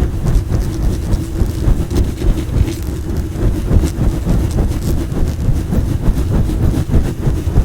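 A microphone being brushed and scratched directly on its body. It makes a loud, dense rumbling rustle of quick strokes, many a second, heaviest in the low end.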